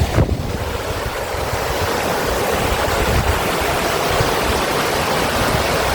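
Waterfall rushing steadily, with an uneven low rumble underneath.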